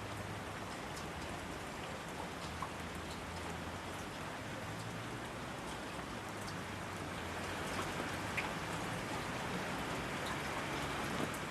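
Steady rain falling, with scattered single drops ticking over the hiss. It grows slightly heavier about two-thirds of the way through.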